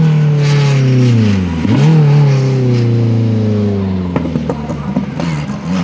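Rally car engine at high revs, its note falling as the driver lifts off, with a quick rev blip about two seconds in as it changes down, then pulling at lower revs. A few short sharp cracks come in the second half.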